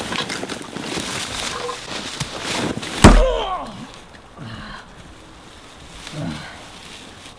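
Rustling and scuffling, then one loud, heavy thud with a deep boom about three seconds in, followed by a short strained vocal cry.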